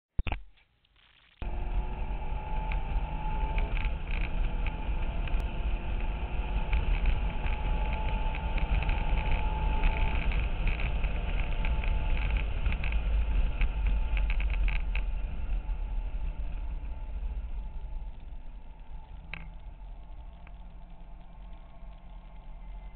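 Cabin sound of a 2008 Corvette Z06's 7.0-litre LS7 V8 under hard track driving, its pitch climbing again and again as it accelerates through the gears, over heavy road and wind noise and interior rattles. After a brief knock and about a second of near silence, the noise cuts in loud and grows quieter over the last several seconds.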